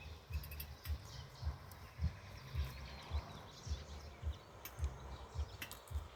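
A regular run of low, dull thuds about twice a second, with faint bird chirps above them.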